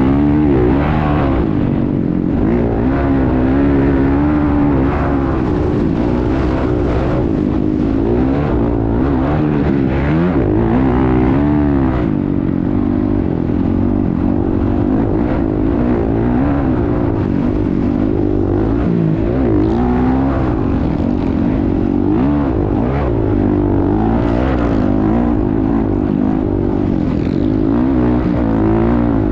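Motocross bike engine revving hard, its pitch rising and falling every second or two as the throttle is worked and gears are changed.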